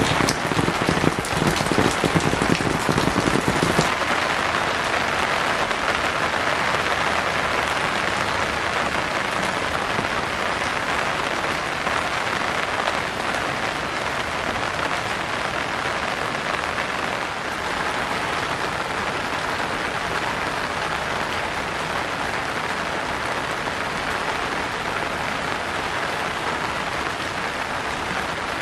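Steady rainfall. For the first four seconds it is heavier, with denser close drops and more low rumble. Then it changes abruptly to an even, steady rain hiss.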